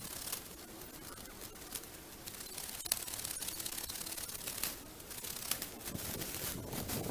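Holly branches rustling and snapping as they are cut back and pulled from over the water, with irregular sharp snips and scrapes.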